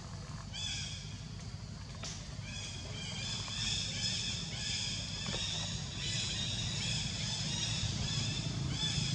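A monkey's high-pitched cries, short arched calls repeated several times a second, over a steady low hum.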